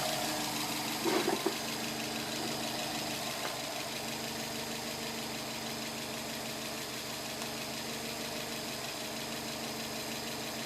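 Subaru WRX turbocharged flat-four engine idling steadily, hot after hard driving, with a noise the owner finds strange. About a second in there is a brief cluster of three quick knocks.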